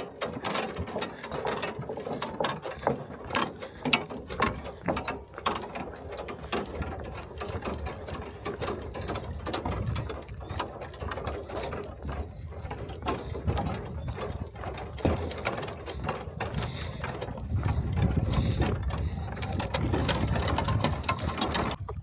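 A rope suspension bridge being walked across: its planks and fittings rattle and click irregularly underfoot, with a low rushing sound growing near the end.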